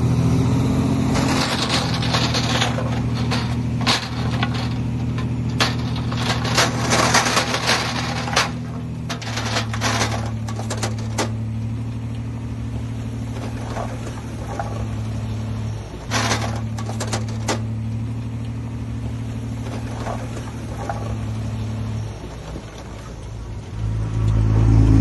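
Heavy diesel engine of earthmoving equipment running steadily, with bursts of metallic clanks and rattles over it. The engine note shifts a couple of times, drops lower near the end, then rises sharply as the engine is revved.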